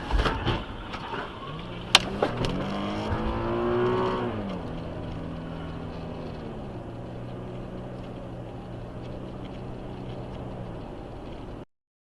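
A car engine revs up, climbing in pitch for about four seconds, then drops back and runs at a steady pitch. There is a thud at the start and a single sharp crack about two seconds in. The sound cuts off abruptly near the end.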